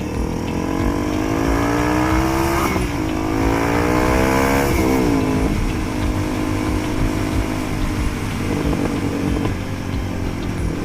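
Motorcycle engine accelerating, its pitch rising, with an upshift about three seconds in and another about five seconds in, then running steadier. Wind buffets the microphone.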